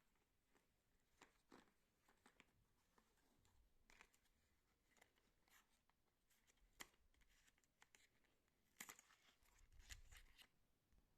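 Near silence in a small room, broken by faint scattered clicks and rustles of small objects being handled, the loudest cluster about nine seconds in.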